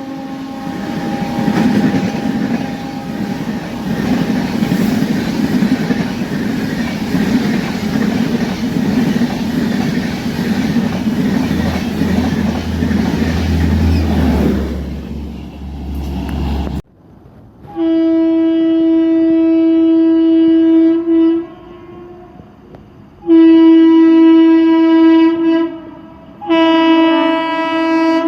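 An express train running through a station at speed, a steady rush of wheel and rail noise, with a horn note fading out in the first few seconds. After a cut, three long blasts of a train horn, each about two to three seconds.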